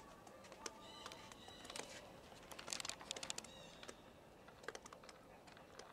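Small birds calling faintly: short high chirps, with a quick rattling run of notes about three seconds in, among scattered light clicks.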